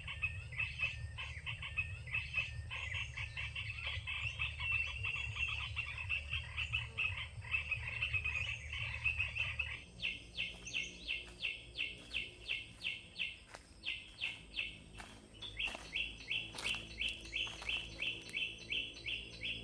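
Birds calling in a fast, even series of short chirps, repeated about three times a second. A low rumble runs under the first half and stops about halfway through.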